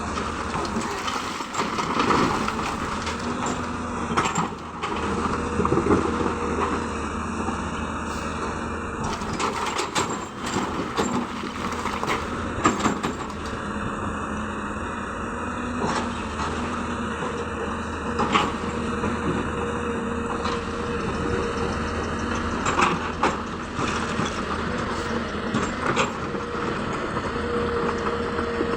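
Hyundai excavator's diesel engine running steadily while it loads stone into a dump truck, with sharp knocks and clatter coming every second or two.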